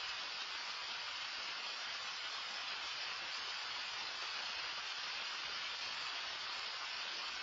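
Heavy rain falling steadily: a dense, even hiss with no single drops or breaks standing out.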